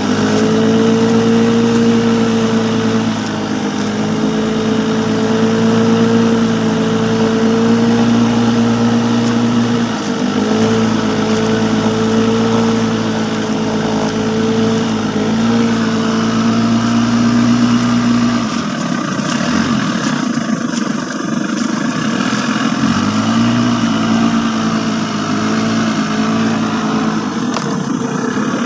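A motor engine running at a steady speed, its note dipping briefly a few times. About two-thirds of the way through the sound changes and the note settles lower, with a short glide down and back up.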